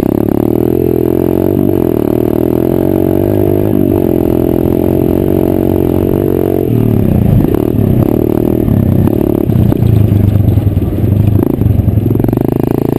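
Pit bike's small single-cylinder engine running at a steady speed under the rider. About halfway through the revs drop off and climb again several times as the throttle is worked, then they hold steady once more.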